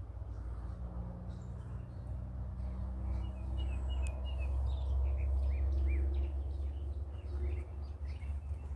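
Small birds chirping in quick, short calls over a low rumble that swells in the middle and eases near the end.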